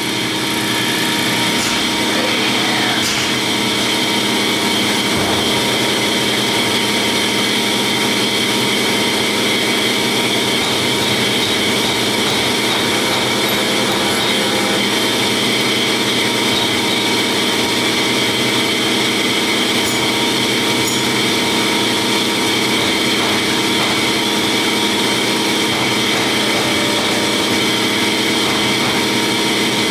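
Factory machinery running steadily: a continuous mechanical drone with several constant tones over a hiss, unchanging throughout.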